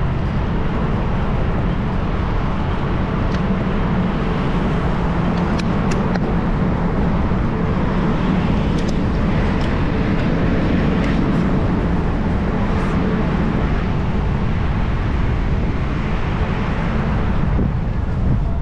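Steady rushing road and wind noise of a moving bicycle ride, heaviest in the low rumble, with a few light clicks in the middle.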